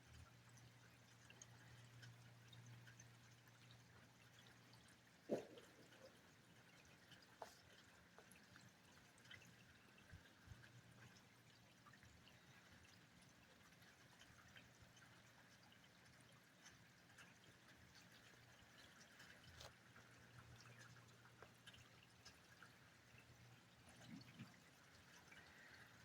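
Near silence: faint rain dripping, with scattered small ticks of drops and one sharper tick about five seconds in.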